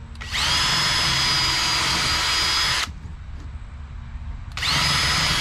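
Power drill spinning up with a quick rising whine and running steadily for about two and a half seconds, then stopping; a second run starts near the end. It is boring pilot holes and screw recesses into the wooden form boards.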